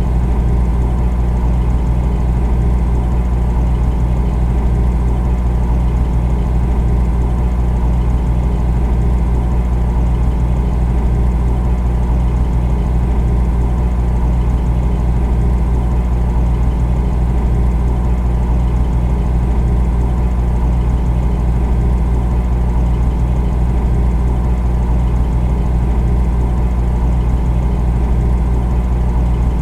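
Refrigerator running: a steady, unchanging low hum.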